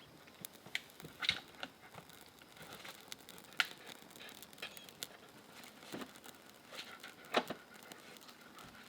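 Scattered faint crinkling, rustling and snapping noises at irregular intervals, with a sharper snap about three and a half seconds in and another near the end, typical of tinder and kindling being handled to start a campfire.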